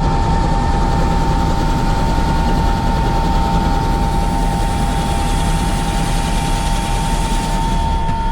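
Helicopter running, with a steady, loud rotor and engine noise and a constant high whine over a low throb.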